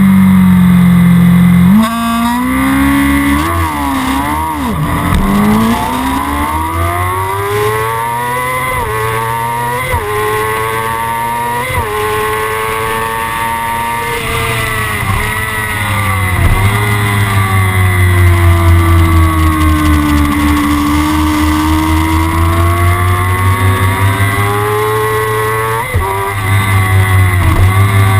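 Kawasaki ZX-6R superbike's inline-four engine accelerating hard: the pitch climbs and drops sharply again and again as it shifts up through the gears, then sinks in a long slow dip and climbs again near the end.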